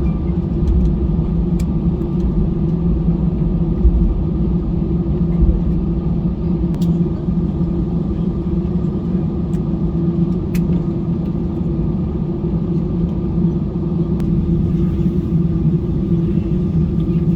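Steady low engine rumble heard from inside a vehicle, with a few faint ticks.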